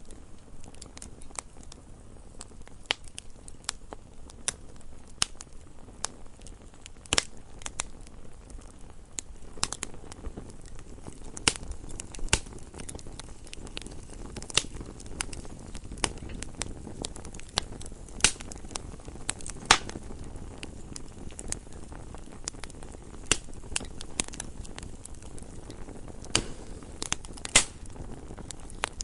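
Wood fire burning in a fireplace: a low steady rumble of flames with irregular crackles and sharp pops from the burning logs, a few of them much louder.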